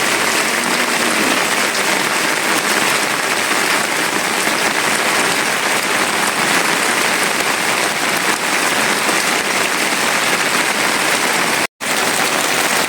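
Steady rain falling, an even hiss with no pause except a split-second drop to silence near the end.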